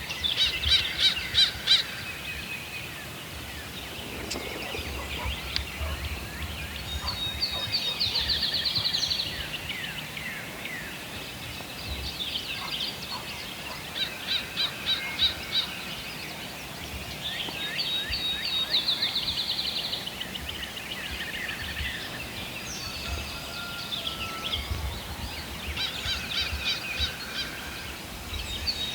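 Birds calling in the woods: rapid trilled phrases that recur every few seconds, the loudest about a second in.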